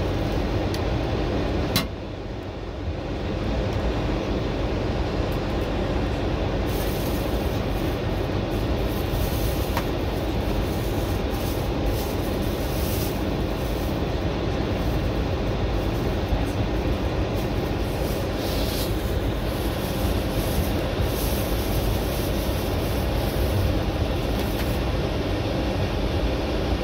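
Passenger train running on the rails, heard from inside the carriage: a steady rumble with scattered clicks and rattles, and one sharp click about two seconds in.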